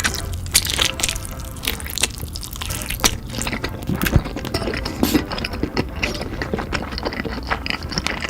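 Wet eating sounds: chewing and smacking of food with many small sharp clicks throughout.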